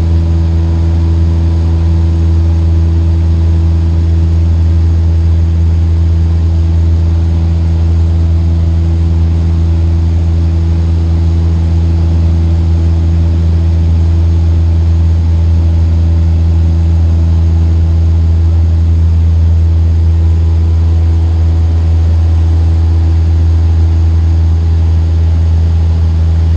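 Cessna 152's four-cylinder Lycoming piston engine and propeller droning steadily, heard from inside the cockpit.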